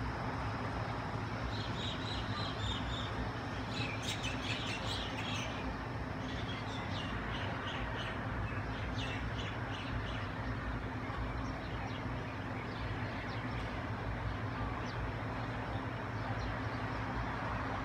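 Birds chirping in quick runs of short, high notes, busiest in the first half and sparser later, over a steady low background rumble.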